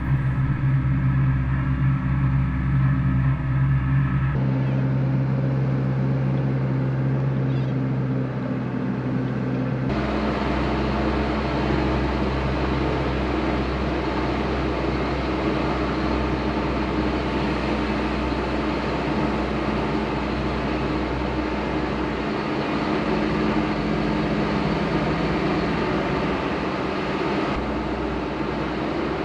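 Isuzu NPS 75/155 4x4 truck's diesel engine running steadily under way on a sand track, with abrupt changes in the sound about 4 and 10 seconds in.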